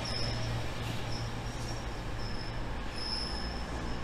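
Train approaching along the platform line: a steady low rumble with a thin, high-pitched squeal that comes and goes several times.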